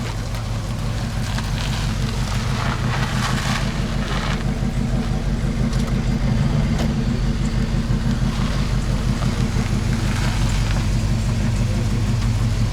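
Pontiac Trans Am engine idling with a steady low, pulsing rumble as the car creeps in to park, growing a little louder as it comes closer.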